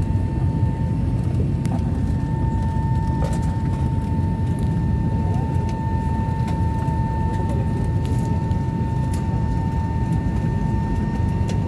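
Steady cabin noise of a Wings Air ATR 72 turboprop airliner: an even low rumble with a constant high whine over it, and a few faint clicks.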